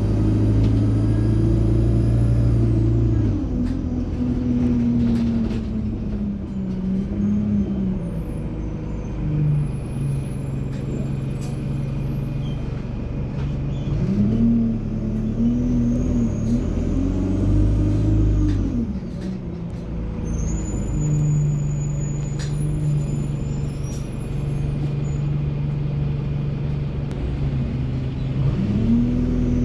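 Alexander Dennis Enviro200 single-deck bus with an Allison automatic gearbox, driving in service. The engine note climbs and drops back several times as the gearbox changes up and the bus slows and pulls away, with turbo whine.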